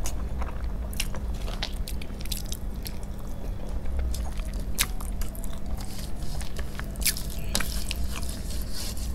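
Mouth sounds of someone eating rice and egg curry by hand: chewing with many short wet clicks and smacks, and fingers mixing rice on a steel plate, over a steady low hum.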